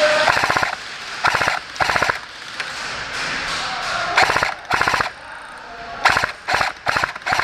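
Airsoft electric guns firing short full-auto bursts, about nine in all. Each burst is a quick run of clicks, and the bursts come in clusters about every half second to a second.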